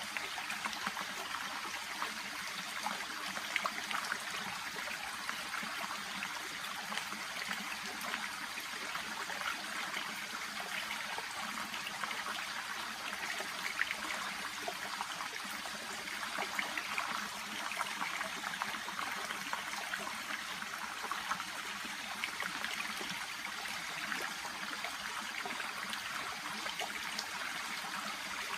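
Shallow brook babbling steadily, water trickling and splashing lightly as it runs past water plants.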